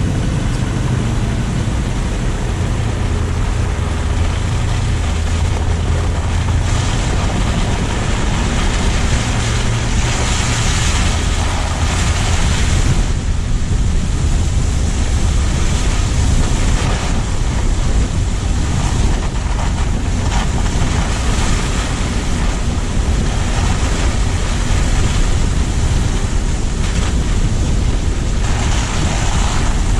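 Car driving, heard from a low-mounted camera: a steady low road rumble under a rushing hiss of tyres and wind on the microphone, which swells twice, about ten seconds in and near the end.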